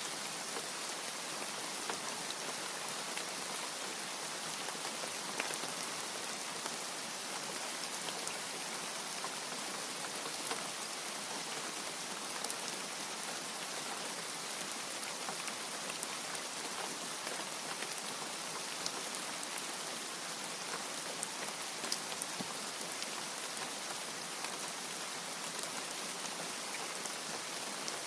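Steady rain, an even hiss with scattered single drop ticks standing out.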